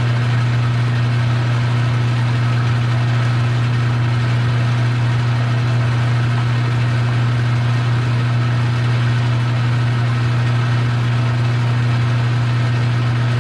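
Metal lathe running steadily while turning down a pin from 3/8 rod, with a strong even hum.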